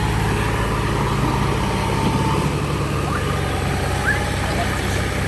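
Heavy diesel engine of a backhoe loader or farm tractor running steadily with an even low drone.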